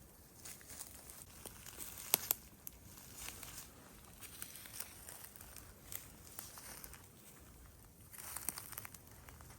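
Slow footsteps crunching over the ground, with scattered crinkling crackles and a sharp snap about two seconds in, and a denser run of crunches near the end.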